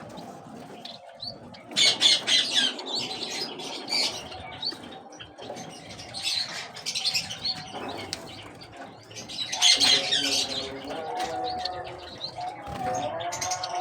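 Mixed cage birds flapping their wings and chirping, in flurries that swell about two seconds in and again around ten seconds.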